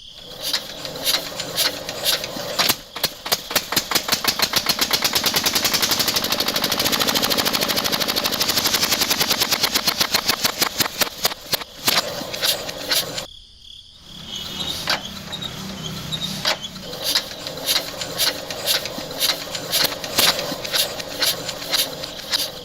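Rapid mechanical clatter: a fast, even run of small knocks that builds and fades. It breaks off briefly about thirteen seconds in, then resumes as more uneven clicking.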